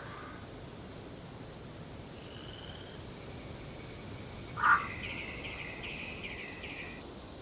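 Forest birds at dawn over a faint steady background hiss: a thin high note from one bird about two seconds in, then a single loud caw like a crow's about four and a half seconds in, followed by a songbird's rapid warbling trill lasting a couple of seconds.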